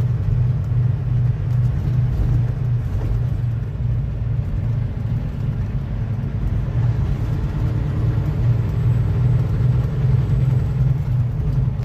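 Semi-truck cab interior: the diesel engine and road noise make a steady low rumble while driving at town speed.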